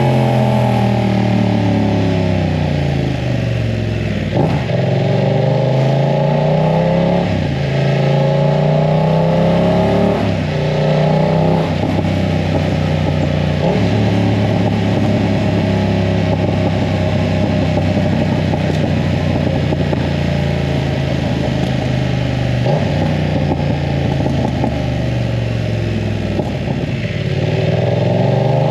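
BMW F900 R's parallel-twin engine running through a full aftermarket exhaust under riding. It accelerates through the gears with rising pitch and a drop at each upshift, about seven and ten seconds in, then holds a fairly steady pitch for a stretch before slowing and picking up again near the end.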